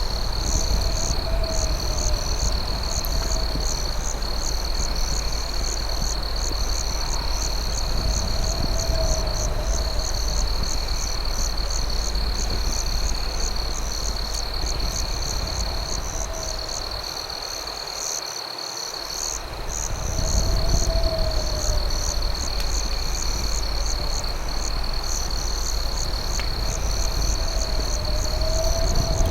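Night crickets: a steady high trill, with a second insect chirping in quick pulses above it. A lower warbling call comes every several seconds, and a low rumble underneath fades out briefly a little past halfway.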